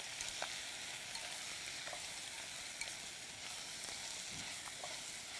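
Chicken pieces frying in hot oil in a pot, a steady sizzle, with a few faint ticks as chopsticks stir them.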